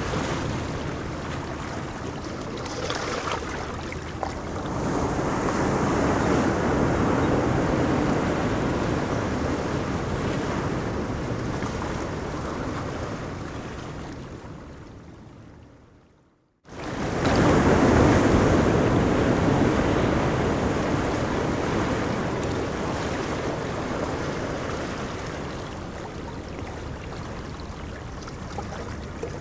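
Ocean surf washing onto a beach, a steady rushing that swells and eases with the waves. About halfway through it fades away to silence over a couple of seconds, then cuts straight back in at full strength.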